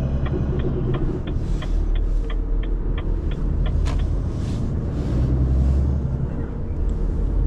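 Renault truck's diesel engine running steadily under way, heard from inside the cab. An even ticking about three times a second runs over it and stops about four seconds in.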